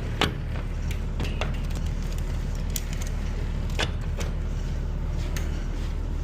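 Steady low hum of an idling box truck engine, with scattered light clicks and knocks.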